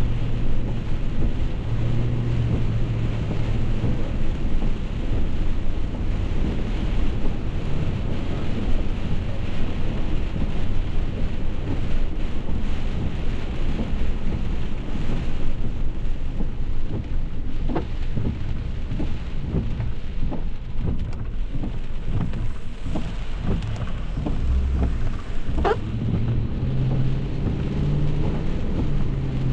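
Heavy rain drumming on a moving car in dense, quick patters, over a steady low hum of engine and road noise that shifts pitch now and then.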